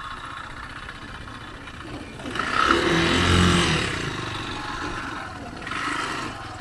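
Kymco KTR 150 motorcycle's single-cylinder engine running as it is ridden, swelling louder about two seconds in as the throttle opens, easing off, then rising briefly again near the end.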